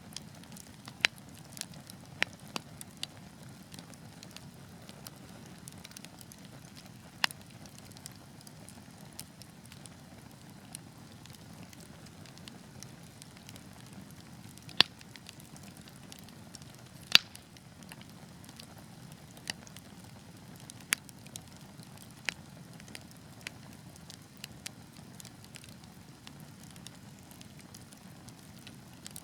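Wood fire burning with a steady low hiss and scattered sharp crackles and pops, two louder pops a couple of seconds apart about halfway through.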